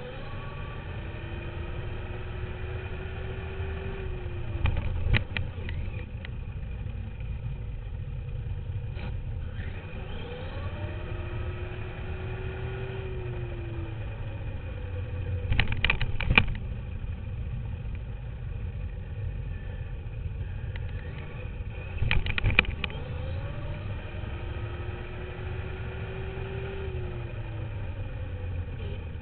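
Duratrax RC dirt bike riding with its motor pitch rising, holding and falling about three times as it speeds up and slows down, over a steady low rumble. Three short bursts of clattering impacts stand out as the loudest sounds.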